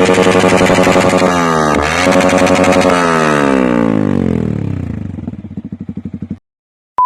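Yamaha FZ single-cylinder motorcycle with a fully customised loud exhaust, revved and held high with a brief dip about two seconds in, then the revs fall away until single exhaust pulses can be heard, cut off abruptly near the end. A short high beep follows.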